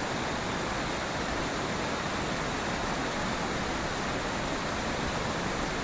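Whitewater of a waterfall and rapids on the Rogue River, a steady, even roar of rushing water.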